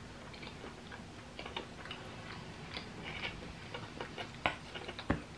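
A person chewing a fruit gummy close to the microphone: faint, irregular wet mouth clicks, with a couple of sharper clicks near the end.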